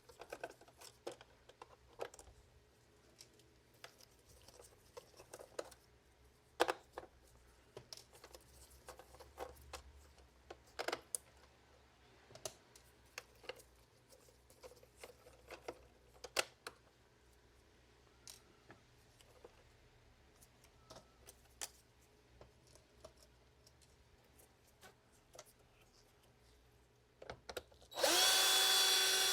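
Scattered light clicks and taps of a robot vacuum's plastic parts being handled and pried apart, then near the end an electric screwdriver runs for about a second and a half, unscrewing the casing.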